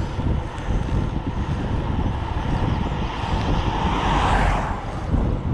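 Wind rumbling on a GoPro microphone while riding. A car passes about three to five seconds in, its tyre noise swelling and fading.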